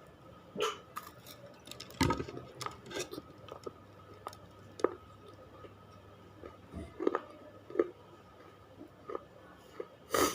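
Someone biting and chewing hard, brittle baked clay chips close to the microphone: a dozen or so sharp, irregular crunches, the loudest about two seconds in and at the very end.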